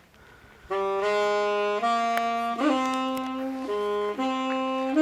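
Background music: a saxophone-like reed melody playing sustained notes that step from one pitch to the next, starting about three-quarters of a second in after a near-silent pause.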